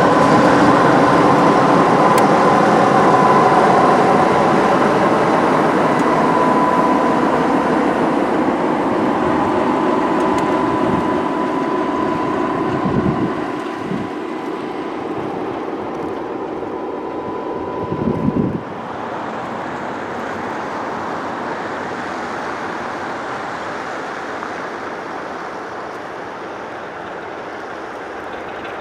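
A train running past, with a steady whine over the rumble of the wheels. About two thirds of the way through, the whine stops and the sound drops to a quieter, steady rumble, with two short low thumps just before.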